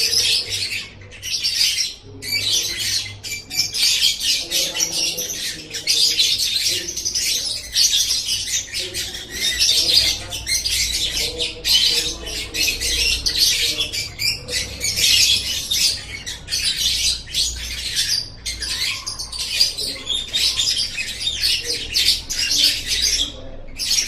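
Lovebird song: a continuous, rapid high-pitched chattering and trilling with only brief breaks.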